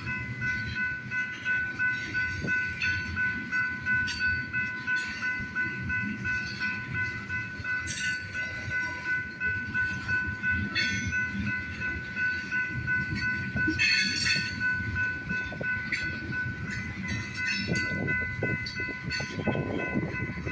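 Freight train cars rolling past: a continuous wheel rumble that pulses a few times a second as the wheels cross the rail joints, with a steady high-pitched tone held over it.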